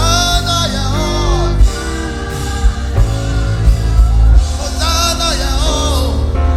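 Live gospel worship music: a band with heavy bass plays while a singer's voice rises and falls in long sung phrases, about a second in and again in the second half.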